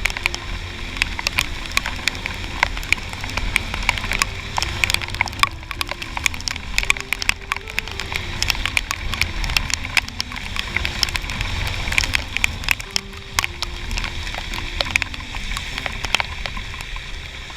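Raindrops ticking densely and irregularly on a helmet-mounted action camera's case, over a low rumble of wind and road noise from riding a scooter. A faint low note steps up and down in pitch underneath.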